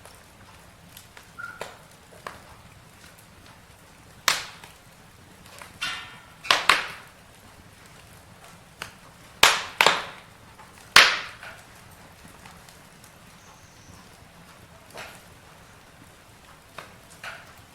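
Campfire wood crackling: scattered sharp pops and snaps over a faint steady background, with a cluster of about half a dozen loud cracks in the middle of the stretch and a few quieter ticks near the start and end.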